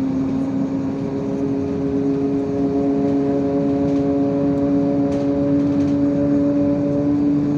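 IVECO Crossway 13M LE city bus engine and drivetrain running under way, a steady drone of several even tones over road noise.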